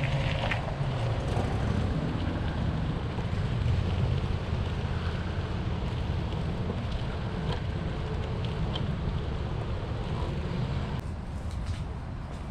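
Steady low wind rumble on the microphone from riding a bicycle, over a haze of outdoor background noise; it eases slightly near the end.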